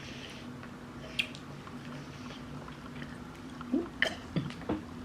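People chewing and eating fried chicken: soft mouth and chewing sounds with a few lip smacks, and a sharper cluster of clicks and smacks in the last second or so, over a faint steady low hum.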